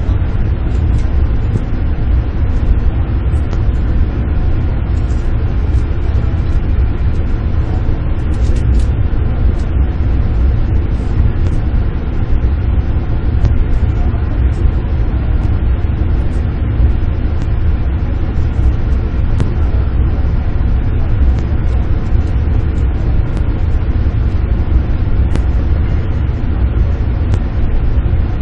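Steady low rumble heard inside a Max double-deck Shinkansen car as it creeps slowly along the platform during coupling work, with faint scattered clicks.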